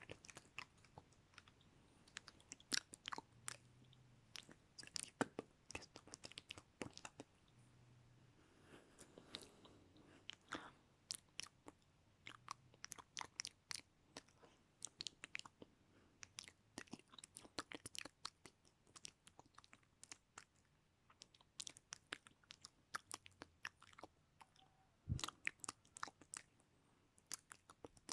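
Close-miked ASMR mouth sounds: wet clicks and smacks of the mouth in quick, irregular runs, with quiet gaps between.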